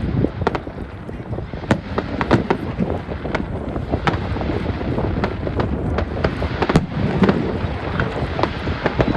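Fireworks display going off: a rapid, irregular run of bangs and crackles over a constant low rumble, with wind on the microphone.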